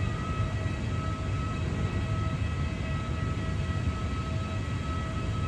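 Boeing 737 jet engines running steadily: a low rumble with a thin high whine held over it.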